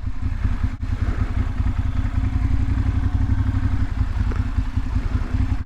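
Ducati Monster 696's air-cooled L-twin engine, fitted with Akrapovic slip-on exhausts, running steadily at low revs with a deep, rapid pulsing exhaust note and no revving.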